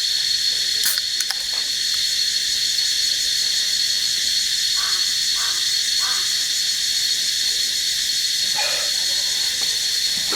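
Steady insect chorus of the tropical forest: a loud, unbroken high hiss with a whine held on one pitch. A few faint short calls stand out briefly about halfway through and again near the end.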